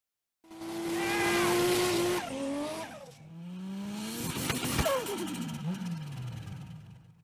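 Car engine revving hard, its pitch gliding up and down. About five seconds in the pitch drops sharply, like a fast car speeding past.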